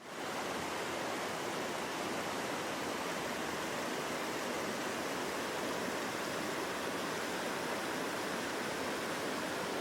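Steady rushing of stream water, an even hiss with no changes, dropping away at the very end.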